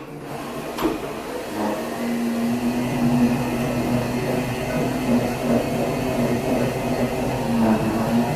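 A steady motor hum that starts about a second and a half in and shifts down in pitch right at the end, with a single click just before it.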